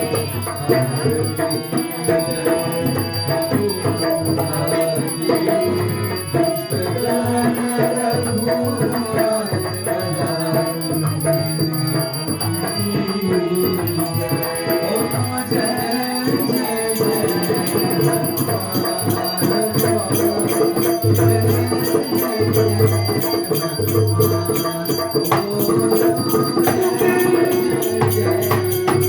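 Hindu arti devotional music, played continuously, with shaken rattling hand percussion over sustained melody and recurring low drum beats.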